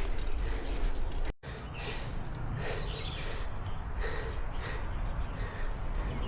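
Steady low wind and riding rumble on the microphone of a moving bicycle, broken by a sudden cut about a second in. After the cut, faint short bird chirps come through several times.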